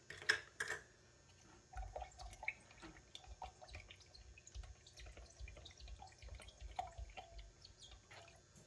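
Faint liquid sloshing and dripping with many small scattered clicks and soft low thuds, from a spoon working through a thin spiced yogurt drink (laban) as salt is mixed in.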